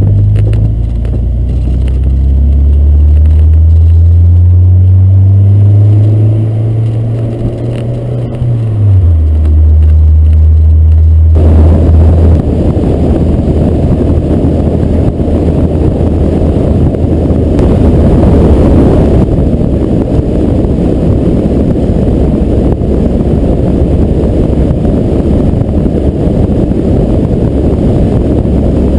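Fiat Barchetta's 1.8-litre four-cylinder engine pulling, its pitch climbing steadily and then dropping sharply, as at an upshift. About eleven seconds in, it gives way to a steady rush of wind and road noise on the microphone.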